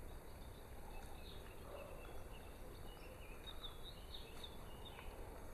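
Quiet background noise with a few faint, short, high bird chirps, mostly between one and four and a half seconds in.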